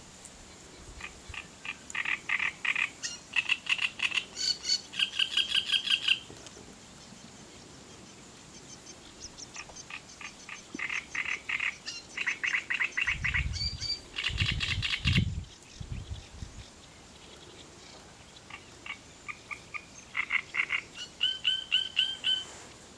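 A songbird in the reeds singing three long bouts of rapid, repeated chattering notes, some phrases ending in clearer repeated whistles, with quiet pauses between bouts. A few low thumps come about halfway through.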